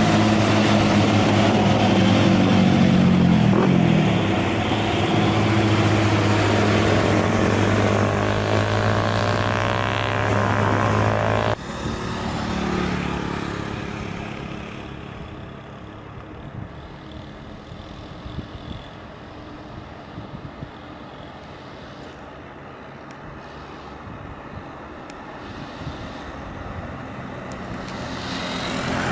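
Loaded heavy truck's diesel engine labouring loudly up a steep climb, then a sudden drop at about twelve seconds to quieter engine and road noise, which builds again near the end as another truck comes closer.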